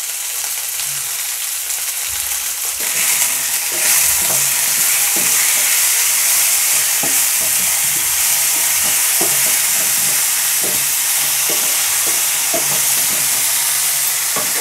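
Chopped tomatoes, chana dal and green chillies sizzling in hot oil in a nonstick frying pan, the sizzle growing louder about three seconds in. A spatula stirs the pan with scattered scrapes and knocks.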